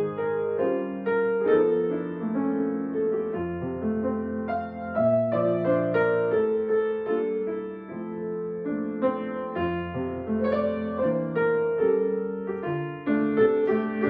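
Piano playing an instrumental piece, with held bass notes under a melody.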